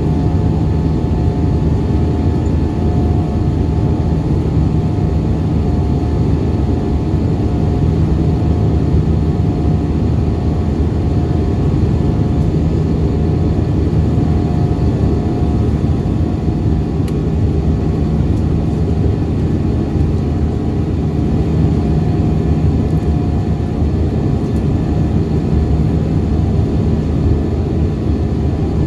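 Steady drone of an Airbus A320's jet engines and rushing air heard from inside the passenger cabin, with a few steady hums over it, the aircraft flying after takeoff.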